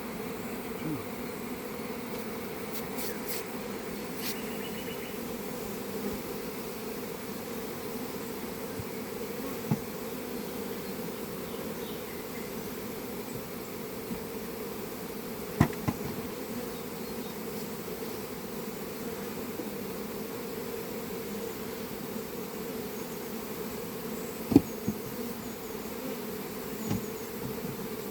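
Many honeybees buzzing in a steady low hum, with a few sharp knocks, the loudest late on.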